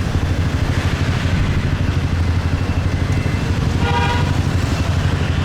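Motorcycle engine running steadily under way in city traffic, with road and wind noise. A vehicle horn honks briefly about four seconds in.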